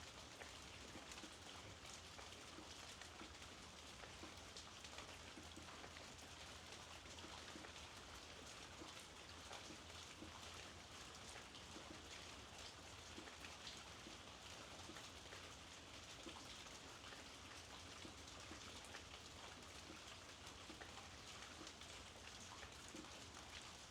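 Faint, steady rainfall with many small individual drops ticking through it.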